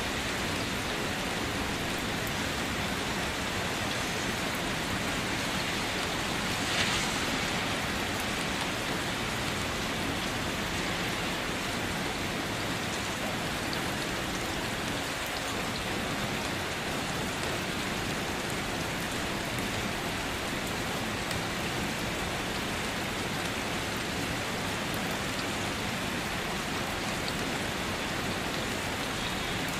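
Rain falling steadily on a wet surface, an even hiss with one short, louder moment about seven seconds in.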